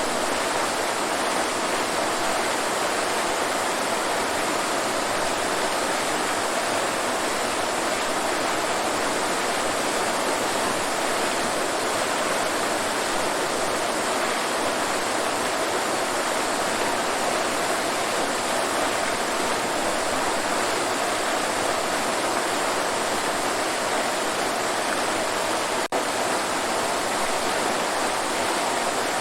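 Waterfall: steady, even rushing of falling water, with one momentary dropout near the end.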